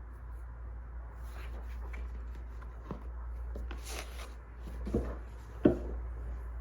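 Wood fire crackling: irregular sharp pops and snaps over a steady low hum and hiss, the loudest pop near the end.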